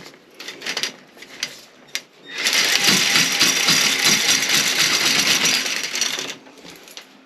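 Toilet auger being cranked: the snake's cable spins and rattles in its tube for about four seconds, after a few light clicks. The toilet is being augered for a blockage behind a weak flush.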